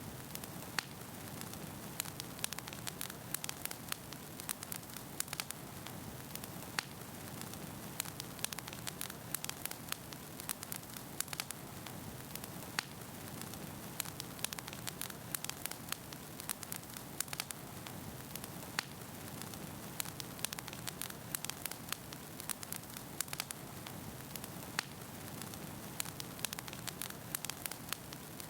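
Wood fire burning in a fireplace: a steady soft rush with frequent sharp crackles and pops of the burning logs.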